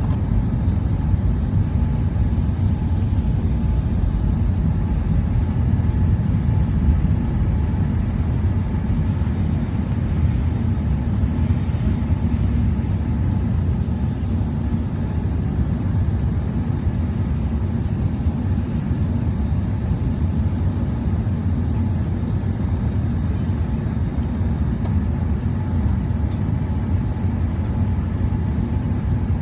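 Airbus A380 engine and airframe noise during takeoff: a steady, unchanging low noise with a faint thin tone above it.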